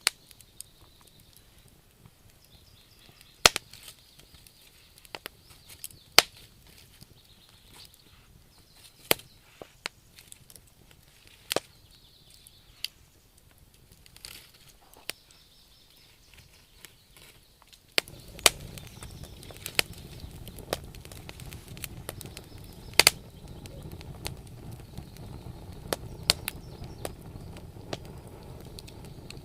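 Campfire crackling: wood popping and snapping in sharp, irregular cracks. About two-thirds of the way through, a steady low rush of burning comes up under the pops.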